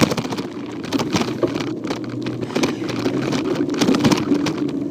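A child's bike rolling along a trail, heard through a phone mounted on its handlebars: an irregular clatter of knocks and rattles over a steady rumble.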